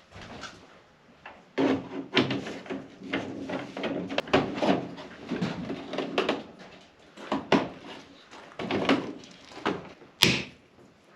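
Irregular knocking, rubbing and scraping of a panel being handled and pushed into place, with a sharp knock near the end.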